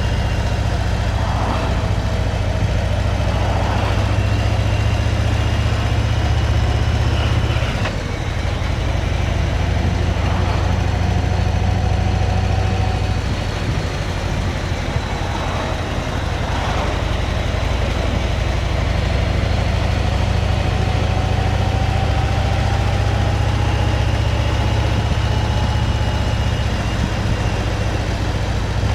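Motorcycle engine running steadily while riding, heard from the rider's mic with a haze of wind and road noise. The engine note briefly drops and changes about eight seconds in.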